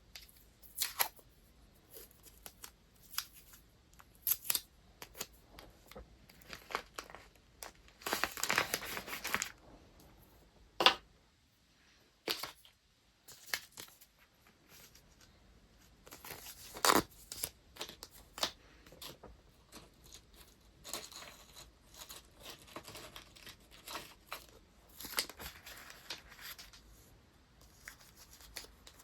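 Paper and wrapping materials being handled during gift packing: rustling and crinkling broken by sharp taps and clicks. There is a longer stretch of rustling about eight seconds in.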